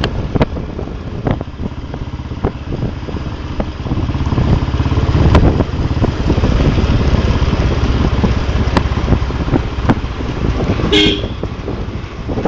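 Royal Enfield single-cylinder motorcycle engine running while riding, getting louder about four seconds in and easing off near the end. A short horn toot sounds near the end.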